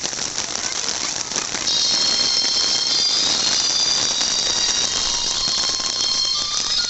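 Heavy rain falling on a paved plaza, a loud steady hiss. From about two seconds in, several high steady ringing tones sound over it.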